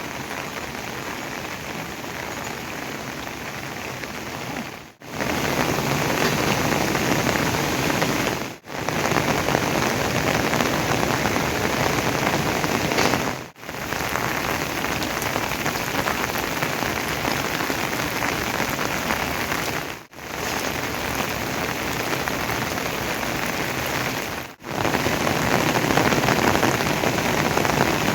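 Steady rain falling, an even hiss that drops out for an instant five times, each stretch in between at a slightly different loudness.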